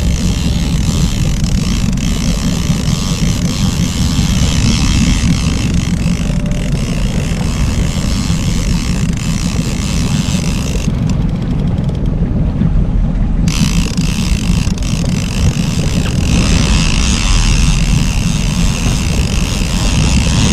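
Fishing boat under way while trolling: a steady, loud low rumble of the boat's motor mixed with wind buffeting the microphone. The upper hiss cuts out briefly about eleven seconds in, then returns.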